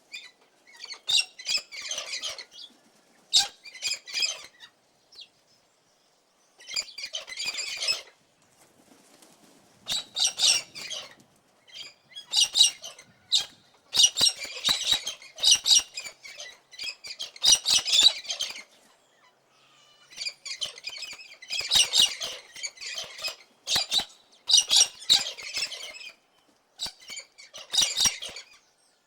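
Cockatoo squawking over and over: loud, harsh calls in bursts of one to two seconds, with short pauses between them.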